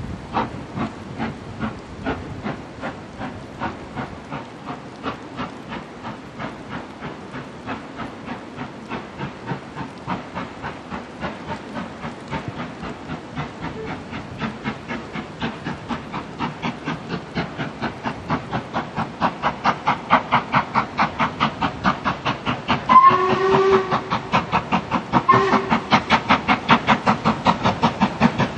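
Steam locomotive working with a regular beat of exhaust blasts that grows louder as it approaches. Near the end the whistle gives two short blasts.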